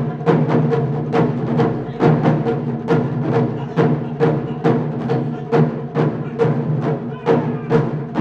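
Japanese taiko drums played in an ensemble, beating a steady, driving rhythm of about three strikes a second.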